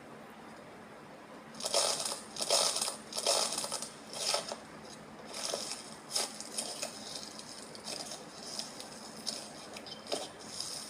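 Slime being squeezed and pressed, giving a run of short crackling, crunchy bursts that start about a second and a half in and come roughly once a second, loudest near the start of the run.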